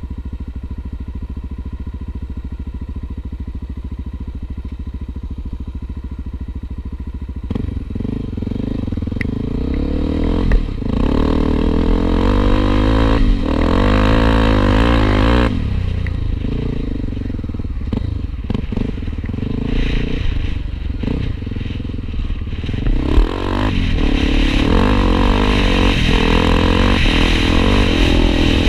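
Honda XR250 Tornado trail motorcycle's single-cylinder four-stroke engine running steadily, then, about seven seconds in, revving up and pulling away, its pitch rising and falling with the throttle.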